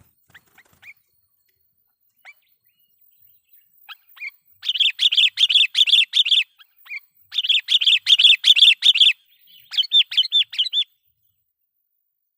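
Sooty-headed bulbul (kutilang) calling: a few scattered single chirps, then three bursts of rapid repeated notes, about five a second, each burst lasting one to two seconds. The calls stop about a second before the end.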